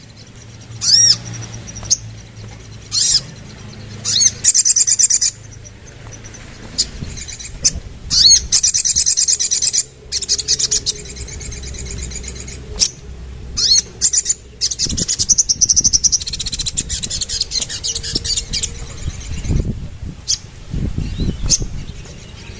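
Sogon sunbird singing: bursts of high, thin chirps and quick trills, some short and some running several seconds, over a low background hum.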